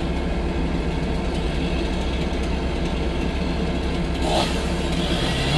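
Diesel engine of a compact tracked skid steer loader running steadily at idle.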